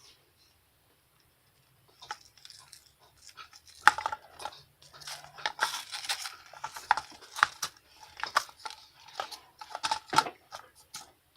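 Irregular sharp clicks and rustling noises, starting about two seconds in after a quiet moment.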